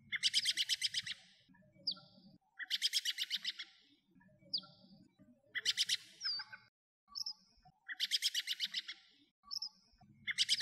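Birds singing: a trilled phrase about a second long, a quick run of chirps, comes again about every two to two and a half seconds. Short single whistled notes fall between the trills.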